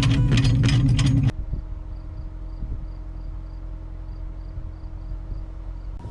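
Background music cuts off about a second in, leaving crickets chirping evenly, about three chirps a second, over a low steady hum.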